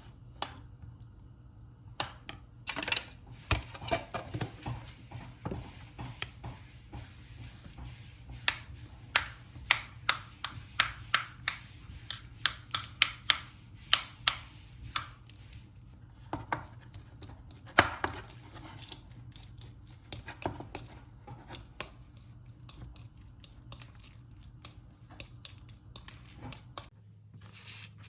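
Knife chopping food on a cutting board: a series of sharp knocks, about two a second through the middle, then sparser toward the end.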